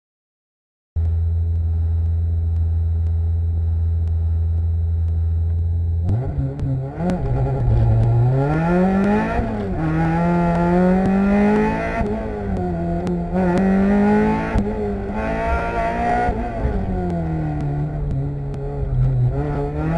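Autocross-prepared Mazda Miata's four-cylinder engine, holding a steady note from about a second in. About six seconds in the car launches and the engine revs rise and fall in pitch again and again as it accelerates and slows through the course.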